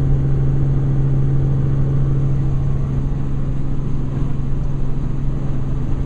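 Steady helicopter engine and rotor noise heard from on board, a loud, even drone with a strong low hum.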